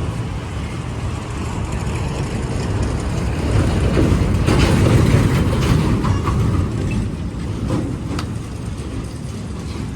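A heavy vehicle's engine running with a rattling rumble. It builds to its loudest about five seconds in, then eases off, with a few sharp clicks along the way.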